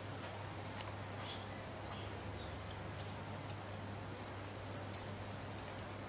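A few short, high bird chirps, scattered, the loudest about a second in and near the end, over a low steady hum.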